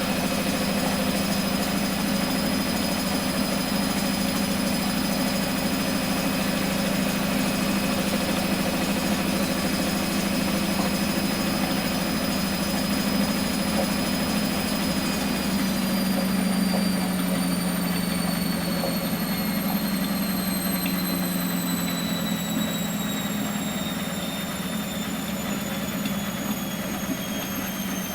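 Miele Professional WS 5426 commercial washing machine running, a steady mechanical hum with a high motor whine. From about halfway in, the whine falls steadily in pitch as the drum slows down.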